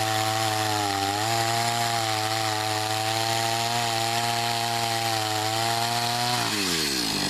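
Two-stroke chainsaw running at high revs, sawing through a pecan log, with a brief dip in pitch about a second in. Near the end the engine's pitch falls steeply as the throttle is let off.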